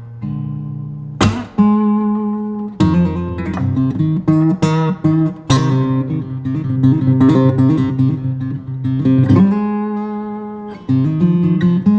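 Background music: acoustic guitar with plucked notes and strummed chords.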